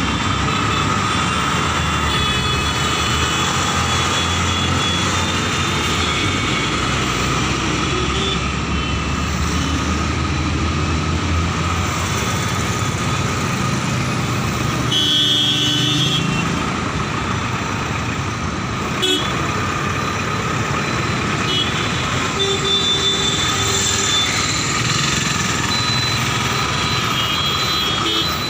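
Steady roadside traffic noise, with a vehicle horn sounding briefly about halfway through.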